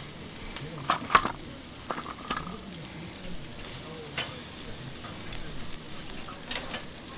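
Steady sizzling of food cooking over the heat, with sharp clicks and clatters of chopsticks and dishes, the loudest about a second in.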